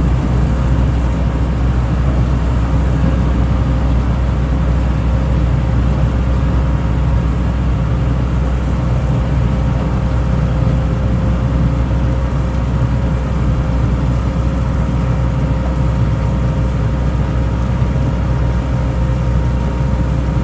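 Road planer running steadily at work: a heavy engine's constant low drone with a steady hum, unchanging throughout.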